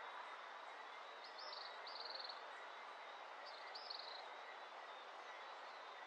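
A bird calls twice, each time a pair of short, high, buzzy notes, about a second in and again near four seconds, over a faint, steady background hiss.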